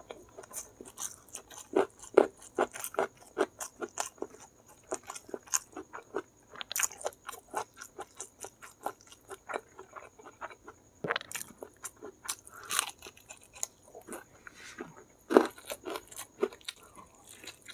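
Close-up mouth sounds of chewing crispy-coated fried chicken with chili sambal and petai beans: a steady run of irregular wet clicks and crunches, with a few louder bites about 2, 11 and 15 seconds in.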